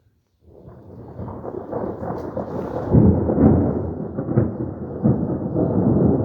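A roll of thunder: a low rumble that starts out of silence about half a second in, swells over a couple of seconds and keeps rolling with uneven louder cracks.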